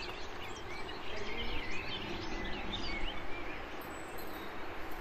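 Small birds chirping in quick short calls over a steady ambient hiss, the chirping busiest in the first half and thinning out later.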